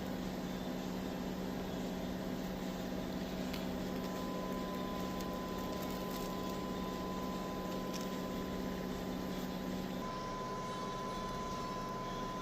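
Steady humming of a household appliance running, with a low hum that cuts out abruptly about ten seconds in, leaving a fainter hiss and a thin high tone.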